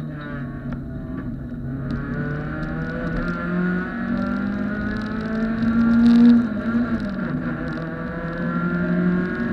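Honda Civic race car's four-cylinder engine heard from inside the stripped cabin while being driven on track. The engine note climbs steadily to a loud peak about six seconds in, then falls away.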